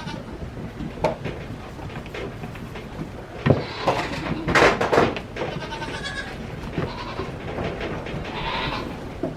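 Nigerian Dwarf goats bleating several times, the loudest calls in the middle of the stretch and another near the end.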